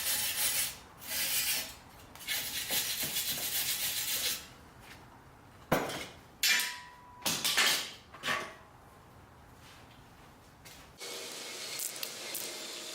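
Several long scraping strokes on metal, like filing or brushing down fresh welds, followed by a few sharp knocks.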